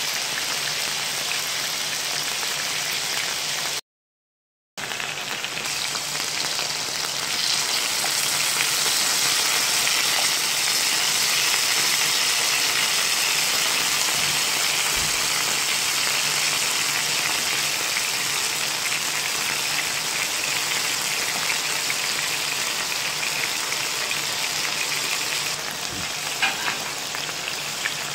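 Chicken pieces sizzling as they fry in hot oil in a pan, a steady hiss that drops out briefly about four seconds in and then gets a little louder.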